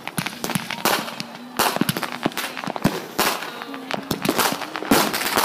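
Consumer fireworks and firecrackers going off all around, a dozen or more sharp bangs and pops at irregular intervals.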